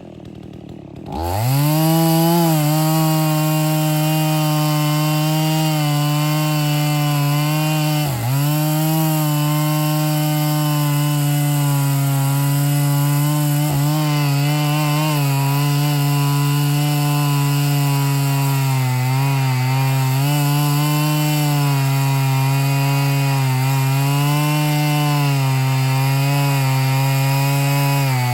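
Two-stroke chainsaw running at full throttle, cutting through a fallen tree. The engine drops off right at the start, revs back up about a second in, and then holds a steady high pitch. It dips briefly once partway through and wavers slightly under the load later on.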